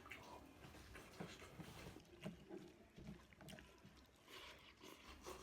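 Faint close-up chewing and mouth smacking, soft wet clicks of someone eating, here and there.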